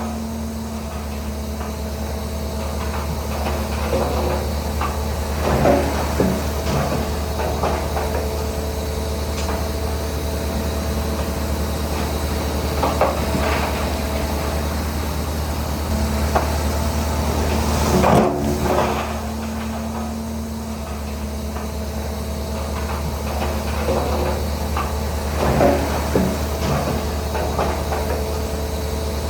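Bulldozer's diesel engine running steadily under load, with occasional metallic clanks and knocks from the tracks and blade, about four times.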